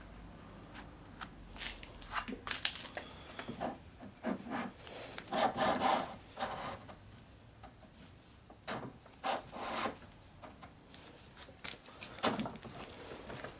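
Irregular rubbing and scraping strokes worked by hand, in bursts with short pauses, as rust is scrubbed off the metal parts of an old benchtop lathe.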